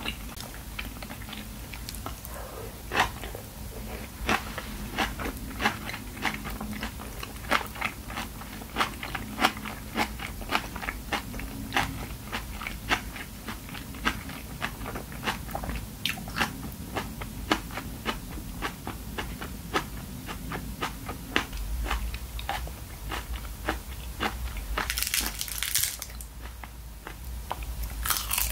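Close-miked crunchy chewing of aged kimchi cabbage (mukeunji), a steady run of crisp crunches at about two a second. Near the end comes a brief, louder hiss.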